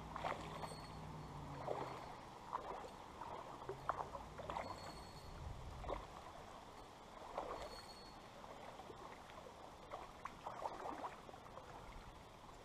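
Creek water sloshing and splashing in short, irregular bursts over the faint steady flow of the stream.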